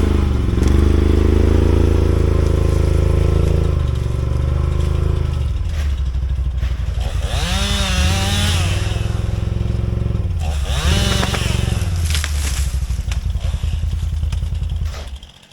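Two-stroke chainsaw running at low speed, revved up twice for a second or two each time and dropping back, before the sound cuts off near the end.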